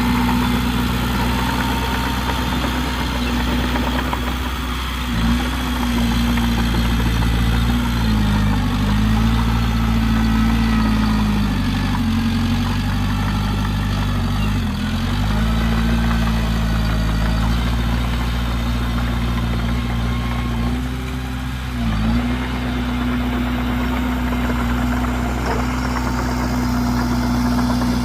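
Heavy diesel engine of earthmoving machinery running steadily. Its engine speed dips briefly and recovers about five times.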